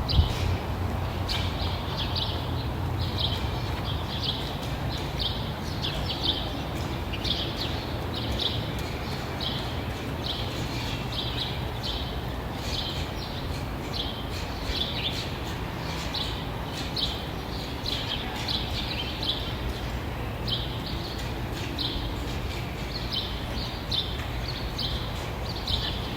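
Birds chirping: short high chirps, about one or two a second, over a steady low rumble.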